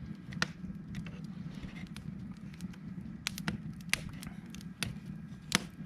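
Wood campfire crackling, with irregular sharp pops over a low steady rumble; the loudest pop comes near the end.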